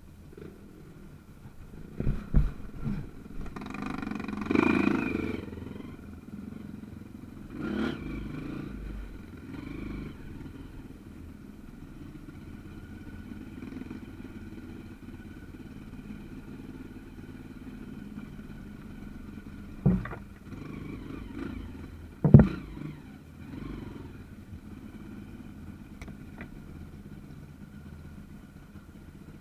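Small trail motorcycle engine running steadily over rough ground, swelling a couple of times as the throttle opens. Several sharp knocks and clatter come through, the loudest about twenty seconds in.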